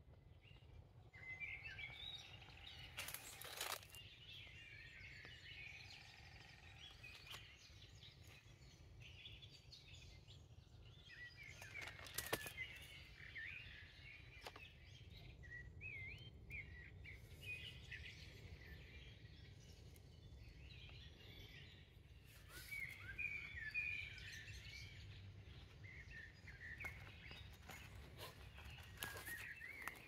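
Faint forest birdsong: small birds chirping and twittering on and off over a low steady background rumble, with a few brief knocks or rustles now and then.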